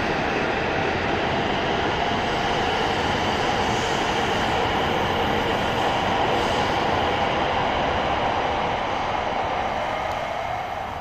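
E7 series Shinkansen train pulling away from the platform, a loud steady rush of running noise that fades near the end as it moves off.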